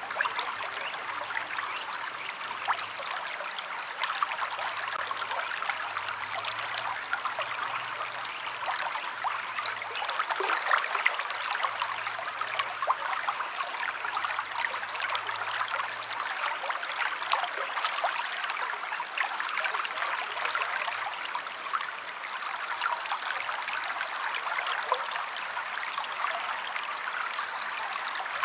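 River water flowing over rocks, a steady rush of babbling with many small splashes and trickles.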